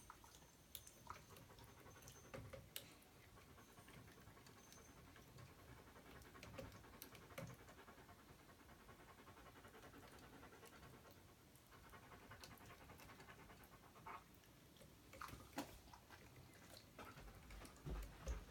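A small toy poodle panting quietly and steadily, with scattered faint clicks and taps.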